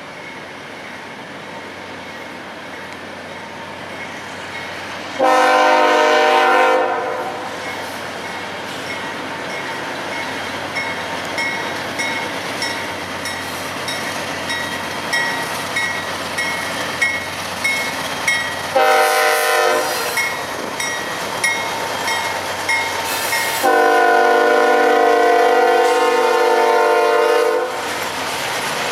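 Diesel freight locomotive sounding its multi-chime air horn in three blasts: one about five seconds in, a short one near the twentieth second, and a long one near the end. Between the blasts the train's rumble builds and a bell rings at a steady beat.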